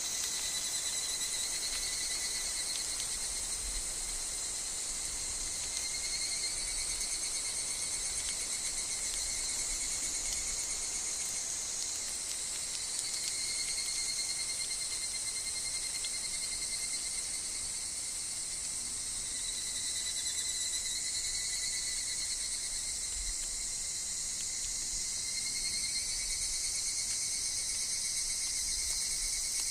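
A chorus of higurashi (evening cicadas) and other insects calling steadily in a high, dense buzz, with a lower trilling call that swells in and fades out every few seconds.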